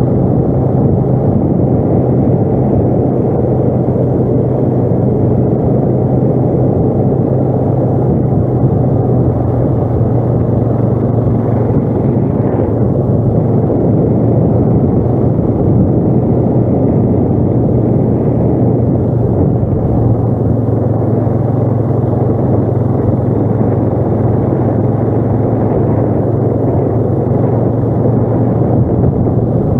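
ATV engine running steadily while riding, a constant low drone under a dense rumble.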